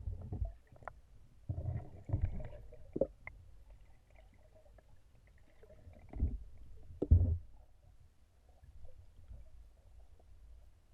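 Kayak being paddled: irregular low thumps and a few sharp knocks as the paddle works the water and bumps the hull, loudest about six and seven seconds in.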